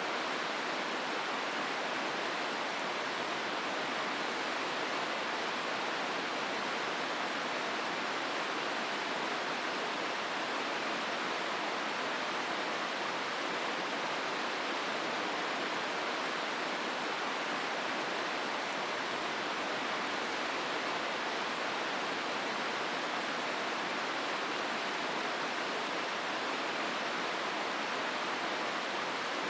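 The Hozu River rushing through its gorge: a steady, unbroken rush of flowing water.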